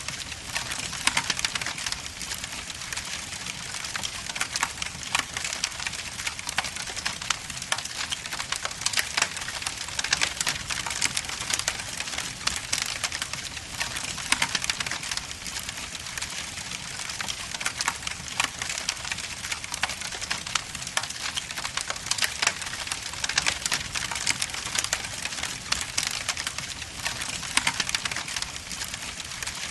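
Logs burning in a fireplace: dense, irregular crackling and popping over a steady hiss.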